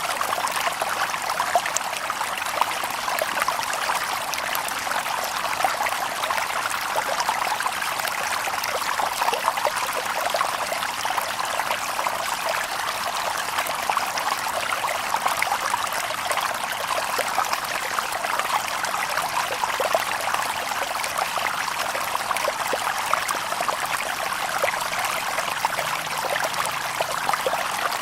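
Shallow stream babbling over stones: a steady run of water with constant small splashes and trickles.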